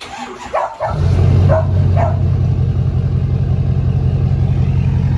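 A vehicle engine, most likely a truck's, starts running about a second in and runs at a steady idle. Early on a dog barks a few times over it.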